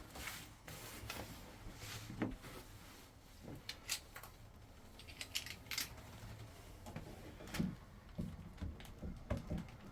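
Scattered light clicks and taps of a Moen shower cartridge being handled and pushed into the valve body.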